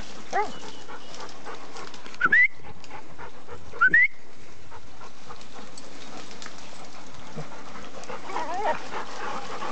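A pack of dogs panting heavily on the move, with a dog giving short high whines: two quick rising squeaks a second and a half apart are the loudest, with fainter whining near the start and near the end.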